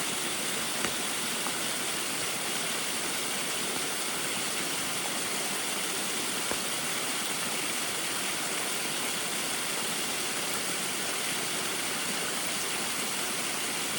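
Small waterfall in the rain: a steady rush of falling water with rain mixed in, and a couple of faint ticks.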